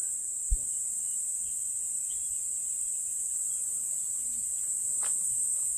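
Insects giving a steady, high-pitched chirring drone, with a single sharp click about half a second in.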